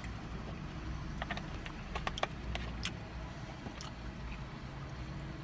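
Steady low hum of a running vehicle, with a cluster of light clicks and taps between about one and three seconds in.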